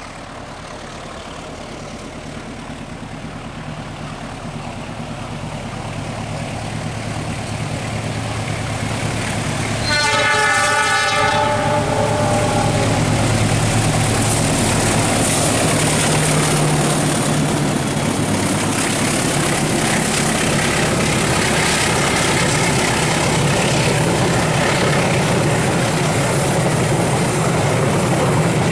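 Long diesel-hauled train approaching and growing steadily louder. About ten seconds in it sounds one horn blast of about two seconds, then passes close by with a steady engine hum and wheel noise.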